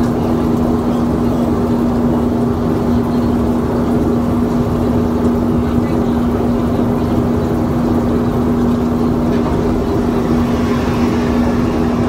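Steady in-flight airliner cabin drone: engine and air-system noise with a constant low hum that does not change.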